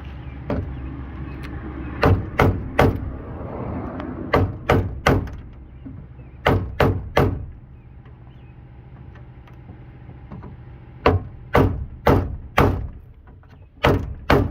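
Hammer blows on the steel door of a Jeep XJ: groups of three or four sharp strikes with pauses between them, as the bent door is beaten back out so it will shut.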